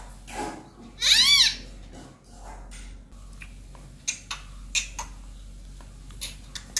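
Indian ringneck parrot giving one loud, meow-like call about a second in, its pitch arching up and then down. A scatter of short, soft clicks follows.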